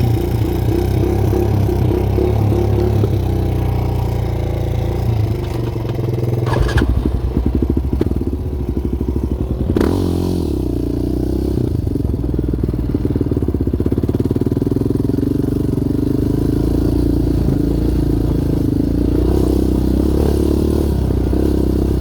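Yamaha Raptor 700R sport quad's single-cylinder engine running under way, its pitch shifting up and down with the throttle. Two sharp knocks, a few seconds apart, come in the first half.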